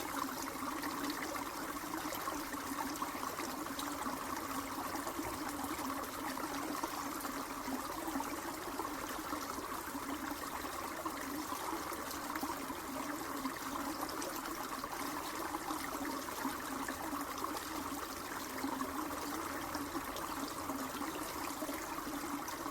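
Steady running water, a continuous trickling rush with no clear break.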